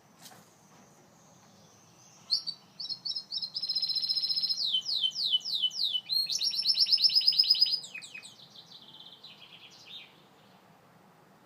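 Gloster canary singing one song phrase of rapid trills and falling whistled sweeps. It starts about two seconds in with a few separate notes, builds to a loud rolling trill, then tails off into softer notes near the end.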